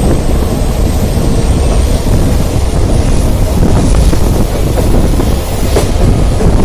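Passenger train running at speed, heard from on board: a steady low rumble of the coaches overlaid with heavy wind buffeting the microphone.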